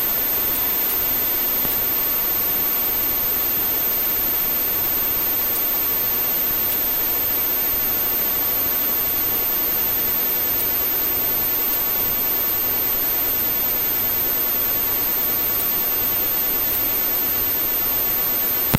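Police helicopter in flight: the steady, even noise of its turbine engines and rotor, with a faint regular low pulsing.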